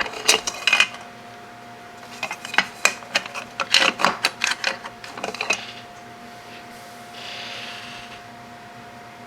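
Small metal tools and parts clattering and clicking as they are handled and rummaged through on a workbench, in two irregular flurries of sharp clicks. Later a brief soft rustle, over a faint steady hum.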